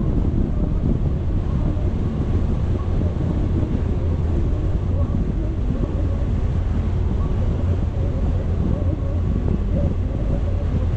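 A vehicle driving steadily, with a constant low engine and road rumble and wind buffeting the microphone.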